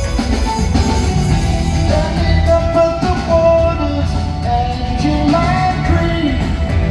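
Live rock band playing loud and steady, with drums, bass and guitar under a sung vocal line.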